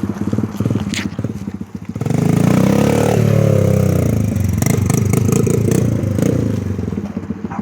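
Small dirt bike engine running with a pulsing beat, then about two seconds in it gets much louder as it revs up close, its pitch sliding down and back up, before easing off near the end.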